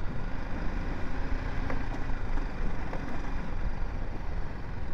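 BMW G 310 GS motorcycle's single-cylinder engine running steadily, heard from the rider's position.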